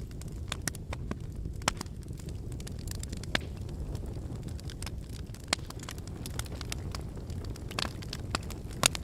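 Wood fire burning in a brick fireplace: irregular sharp crackles and pops over a steady low rumble of the flames, with a few louder pops, one just before the end.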